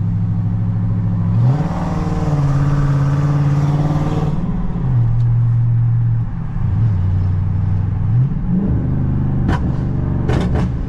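Dodge Charger Scat Pack's tuned 392 HEMI V8 exhaust under throttle: the engine note jumps up a little over a second in and runs hard for about three seconds, then drops back in steps and picks up again. Near the end a few sharp exhaust pops crack out.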